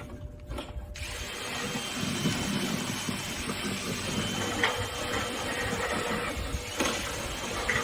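A motorised tool starts about a second in and runs with a rattling, scraping noise and a faint steady whine.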